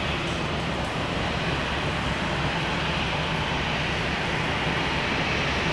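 Jet airliner engines running with a steady, even noise.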